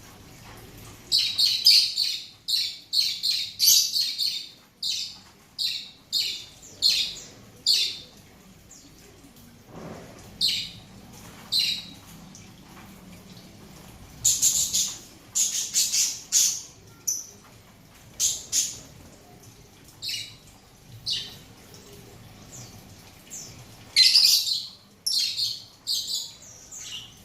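Small parrots in an aviary giving short, high, shrill calls in quick clusters, with quieter gaps between the bursts.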